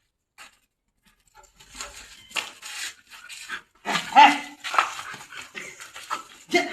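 German shepherd dog barking in a run of irregular noisy bursts, starting about a second and a half in, with the loudest bark about four seconds in.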